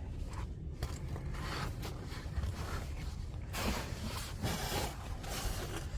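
Hiking shoes scuffing and scraping on sandstone, with clothing and gear rustling, over a steady low rumble.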